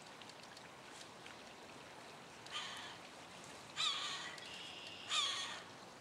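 A bird giving three short, harsh calls about a second and a half apart, the second and third louder than the first.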